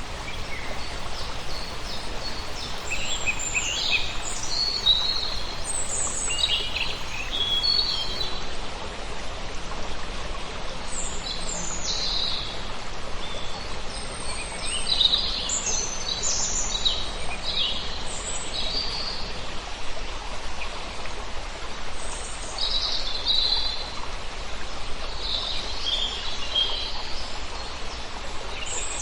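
Small songbirds chirping and trilling in short, repeated phrases over a steady background hiss.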